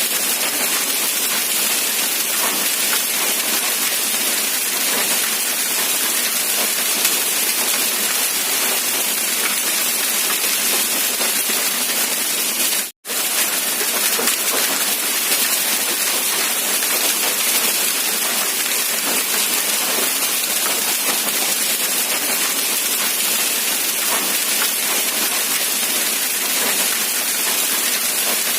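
Steady rain falling, an even, dense hiss of drops. It cuts out for an instant about halfway through, then resumes unchanged.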